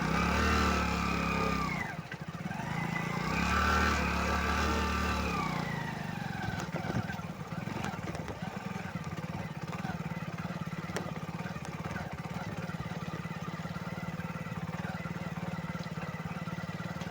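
Motorcycle engine sound rising and falling in pitch twice, loudest in the first few seconds, then settling into a steady low engine hum.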